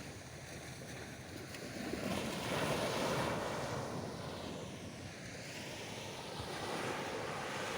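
Sea surf on a sandy beach: a wave breaks and washes up the shore, loudest about three seconds in, then eases off into a steady wash.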